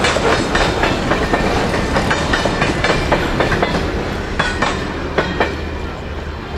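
Covered hopper cars of a freight train rolling past close by, their steel wheels clacking over rail joints in quick, irregular clicks over a steady rumble. The sound eases a little near the end as the last car goes by.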